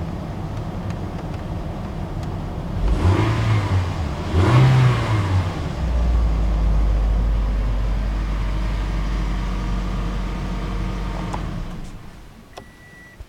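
Toyota Noah's 3ZR four-cylinder engine running with its abnormal noise, blipped twice in quick succession about three and four and a half seconds in, then settling to a steady run before the sound drops away near the end. The owner puts the noise down to either a broken one-way clutch pulley or an over-tightened drive belt, with a worn-out water pump as well.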